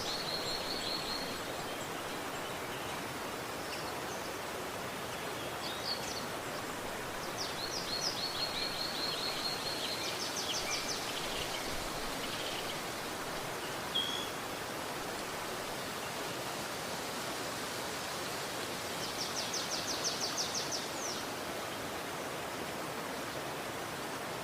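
A river rushing steadily, with birds chirping over it in short, high, rapid trills: once near the start, a run in the first half, and one more well past the middle.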